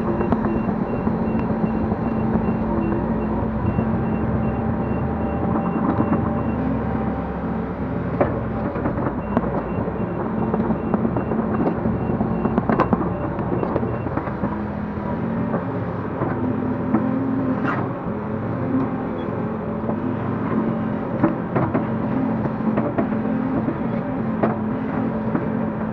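Link-Belt 145X3E hydraulic excavator's diesel engine running steadily under load, with frequent knocks and clanks of the bucket and its load of soil. A backup alarm beeps steadily for the first six seconds or so and again from about nine to fourteen seconds in.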